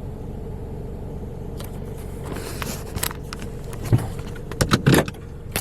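A steady mechanical hum, with scattered clicks and knocks from about one and a half seconds in.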